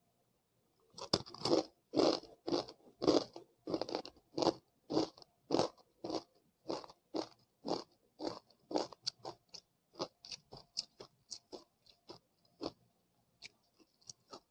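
Chegodilu, crunchy fried rice-flour rings, being bitten and chewed: a run of sharp crunches starting about a second in, about two a second, loudest at first and growing softer as the chewing goes on.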